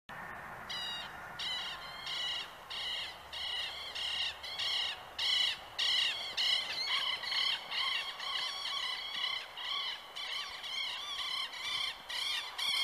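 A bird giving a long run of short, harsh, repeated calls, about two a second, growing louder partway through.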